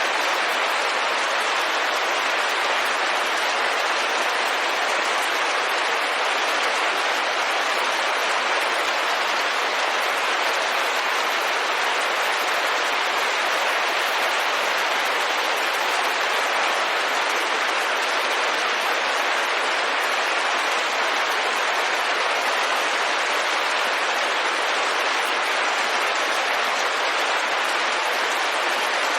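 Steady rain pattering on a window, an even hiss of drops with no change in level.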